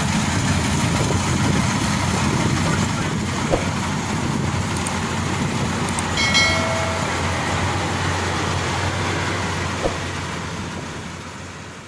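Maxxi Bimo Xtreme combine harvester running steadily, engine and machinery together. A brief higher tone sounds about six seconds in, and the sound fades out near the end.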